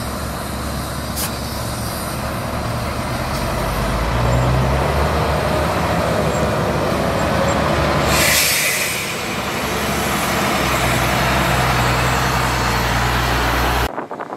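Heavy diesel engine of earthmoving equipment running steadily, growing louder about four seconds in, with a short sharp hiss of air about eight seconds in. The sound cuts off abruptly near the end.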